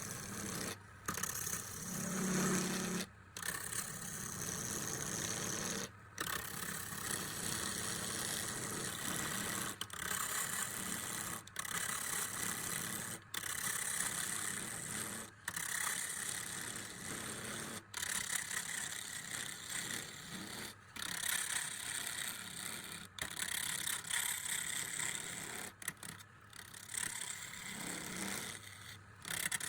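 A woodworking power tool running steadily with a harsh, noisy sound, broken by short gaps every two seconds or so.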